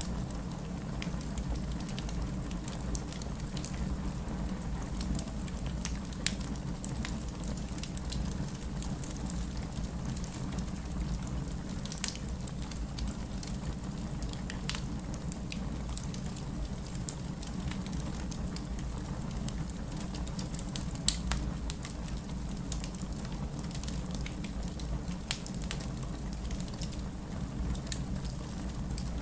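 Wood fire burning in a fireplace: dense, irregular crackling with sharp pops over a steady low rumble, one louder pop about two-fifths of the way in and the loudest about three-quarters through.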